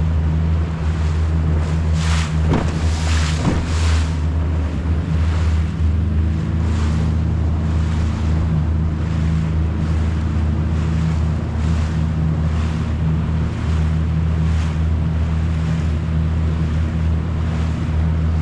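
Boat motor running steadily on the water, a constant low drone, with water splashing against the hull several times in the first few seconds and wind on the microphone.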